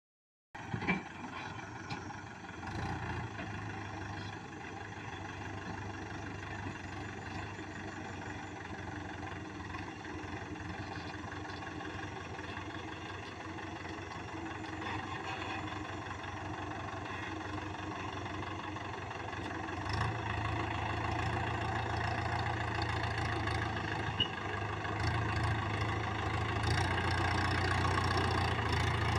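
Tractor diesel engine running steadily, growing louder around two-thirds of the way through and again near the end.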